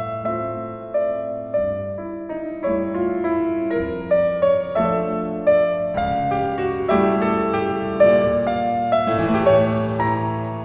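Background piano music: gentle chords and melody notes, fading out near the end.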